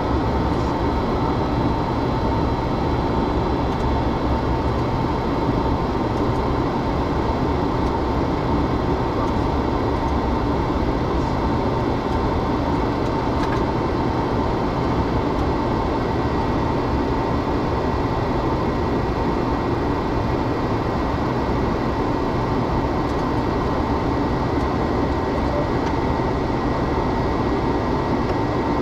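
Boeing 737-200 flight-deck noise: a steady, even rush of airflow and the Pratt & Whitney JT8D turbofans at climb power, with a thin steady whine above it.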